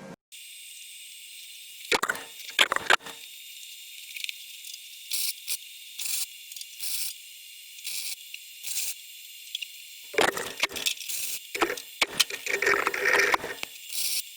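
MIG welder laying a series of short tack welds on a steel patch panel, each arc a brief burst of about a quarter to half a second with a steady hiss between. The bursts come a few at a time, then denser and longer near the end.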